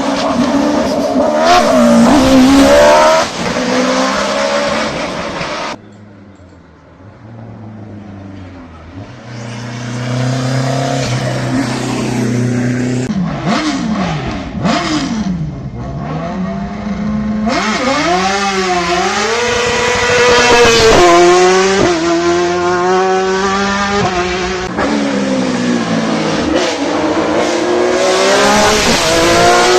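Hillclimb race cars' engines accelerating hard, the pitch climbing and dropping through gear changes, in several separate passes joined by abrupt cuts. About halfway through, an engine holds a steady low note, then rises and falls in quick throttle blips before a loud run up through the gears.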